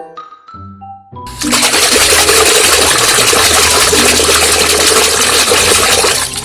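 Water gushing loudly over a muddy toy as it is rinsed, starting about a second in and running steadily for about five seconds, over background music.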